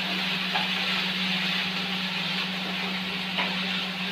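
Diced vegetables sizzling in hot oil in a wide pan and being stirred with a spatula, with a couple of faint scrapes. A steady low hum runs underneath.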